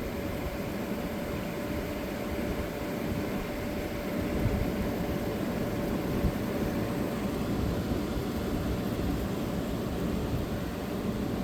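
1985 White Westinghouse 5900 BTU apartment-style air conditioner running: a steady rush of air from its fan with a steady hum over it. Its rotary compressor runs quietly, without shaking much.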